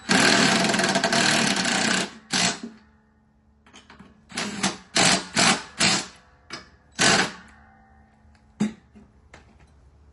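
Handheld power tool run hard for about two seconds, then triggered in a string of short bursts, the way bolts are driven or loosened on a mower deck spindle.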